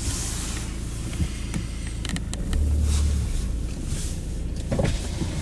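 Car engine idling as a steady low rumble that swells briefly about two and a half seconds in, with wind buffeting the microphone.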